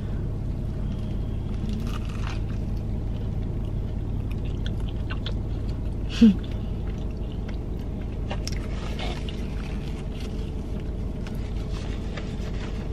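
A person biting into and chewing a large spicy fried chicken sandwich, with small crunches and wet mouth sounds over a steady low hum. A brief voiced 'mm' rises about six seconds in.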